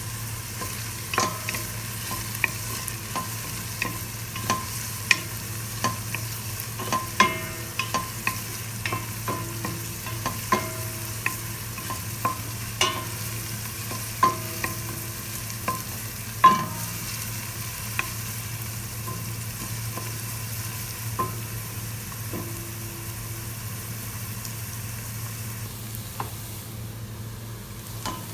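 Food frying in a pan while a cooking utensil stirs it, knocking against the pan with sharp ringing clinks, frequent through the first half and sparser later, over a steady low hum.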